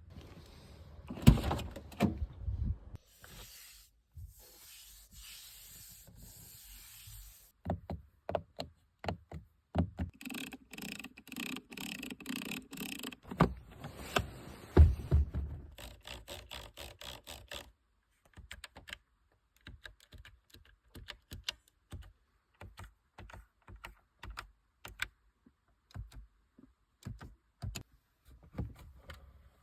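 Handling sounds on a MINI Cooper F56: a long run of light clicks and taps, with a few heavier thunks and stretches of rubbing. The loudest thunks come about a second in and about halfway through, and the clicks thin out towards the end.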